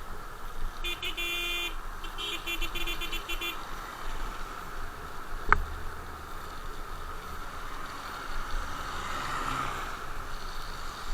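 A vehicle horn honks twice: two buzzy blasts about a second each, close together. Under them runs a steady rushing road and wind noise, and a single sharp click comes about halfway through.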